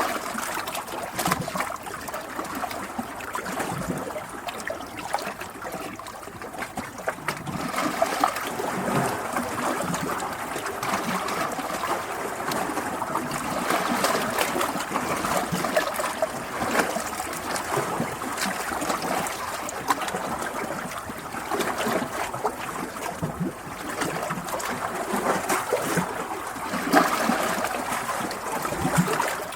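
Running water, a steady splashing and trickling full of small irregular splashes that swell and ease.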